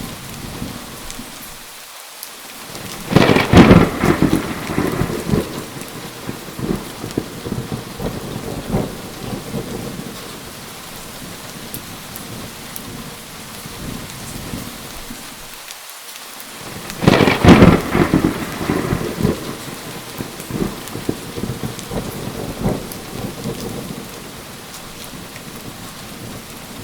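Steady rain with two loud thunderclaps, about three seconds in and again about fourteen seconds later. Each crack is followed by several seconds of rolling thunder.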